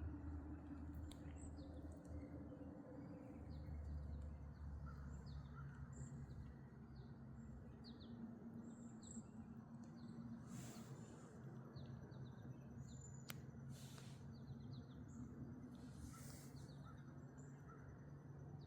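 Faint chirping of small songbirds: many short, high chirps scattered throughout, over a steady low hum. A brief swish about ten seconds in and another near the end.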